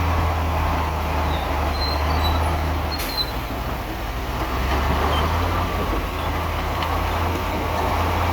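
Bulldozer's diesel engine running steadily with a low drone, with faint metallic squeaks and a single sharp click about three seconds in.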